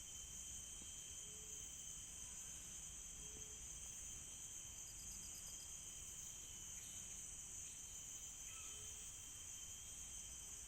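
Steady high-pitched chorus of crickets and other insects, with a short rapid trill about five seconds in.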